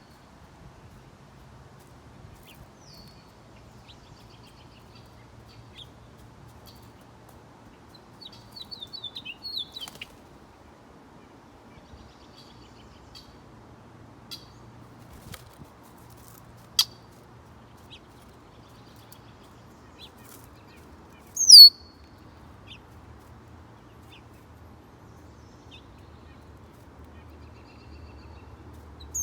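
Songbirds chirping with scattered short high calls, a quick twittering run about nine seconds in, and a loud, sharply falling call a little past the two-thirds mark, with another right at the end.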